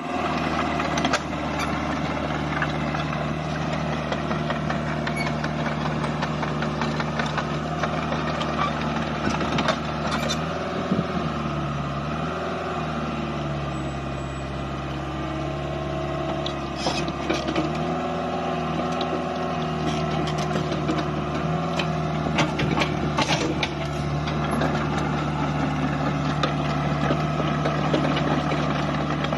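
Caterpillar 305.5E2 mini excavator's diesel engine running steadily, its pitch dipping and recovering several times as the hydraulics take load, with a few sharp knocks.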